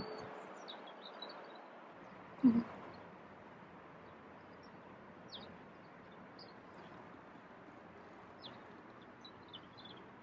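Small birds giving short, high chirps now and then, over a faint outdoor hiss. About two and a half seconds in there is a single thump.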